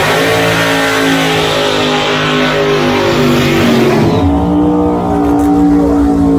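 Drag race cars at full throttle down the strip just after the launch, a loud engine note held steady. The note dips briefly and picks up again about four seconds in, as at a gear change.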